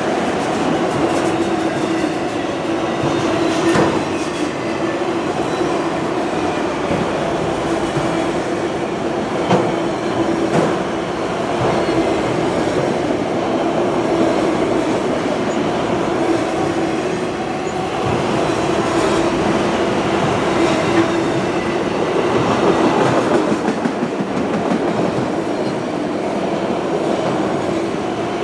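Freight train cars rolling past, steel wheels clacking over rail joints with a steady ringing tone under a continuous rumble.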